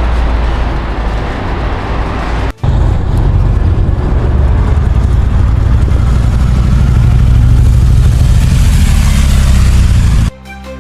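Motorcycle running at road speed under a loud rushing noise and a low engine rumble, with a brief break about two and a half seconds in.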